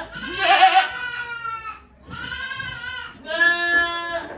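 Goat bleating: three long calls in a row, the first one louder and rougher at its start.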